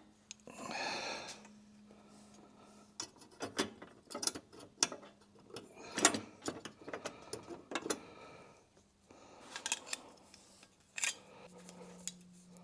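Metal tools and parts being handled: irregular sharp clicks, clinks and knocks, with a short clatter about half a second in, over a faint steady hum.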